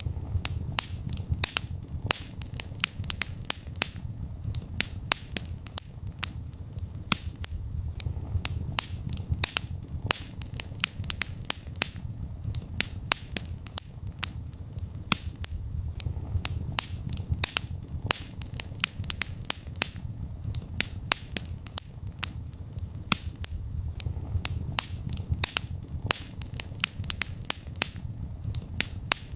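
Wood fire burning in a fireplace: many sharp, irregular crackles and pops, several a second, over a low rumble from the flames.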